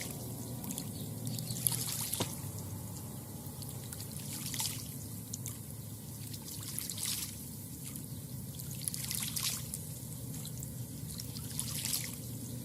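Lake water lapping and trickling at the shoreline, with a soft splash every second or two.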